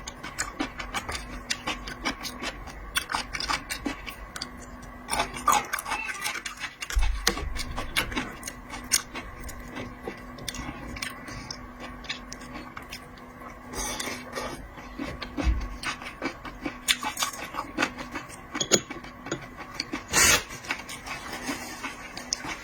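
Close-miked eating of raw seafood: many small clicks, crunches and wet smacks of chewing and handling, with a faint steady hum underneath.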